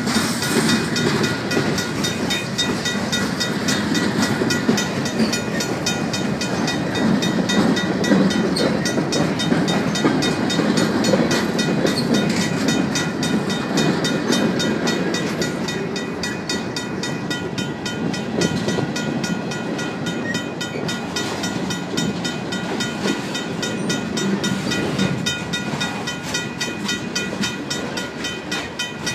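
Freight cars of a passing freight train rolling by close up, wheels rumbling and clattering on the rails, with a mechanical crossing bell ringing steadily. The train noise eases slightly in the second half.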